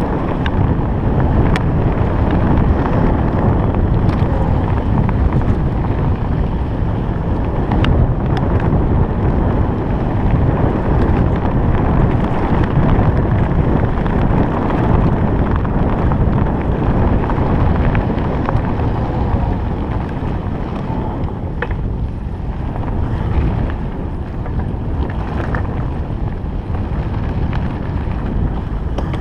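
Wind buffeting the microphone of a moving electric bike ridden over a rough forest road, a steady low rumble, with a few brief clicks and knocks scattered through.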